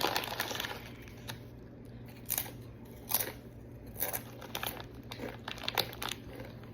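Plastic snack bag of corn chips crinkling in scattered sharp crackles, with some crunching of the chips.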